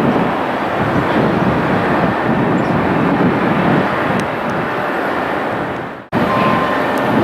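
Jet airliner engines, a loud, steady rumble. It fades and cuts off abruptly about six seconds in, then picks up again straight away at full level.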